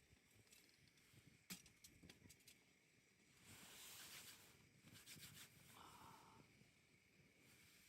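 Near silence, with a few faint clicks about a second and a half in and a soft hiss around four seconds.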